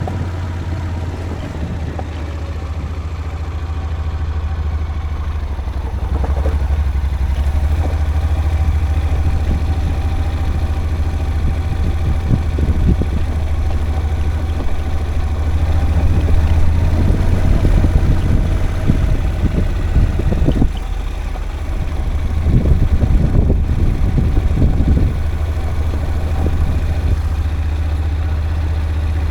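A vehicle engine running steadily with a deep hum, joined by bursts of rattling and clatter, most of them between about 12 and 25 seconds in.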